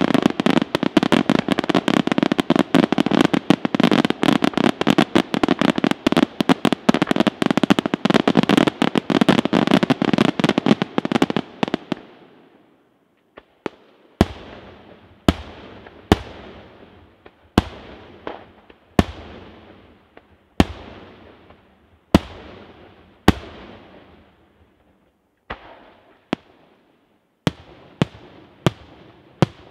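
Daytime aerial fireworks: a dense, unbroken volley of rapid bangs for about twelve seconds, then a short lull, then single shell bursts about once a second, each with an echoing tail.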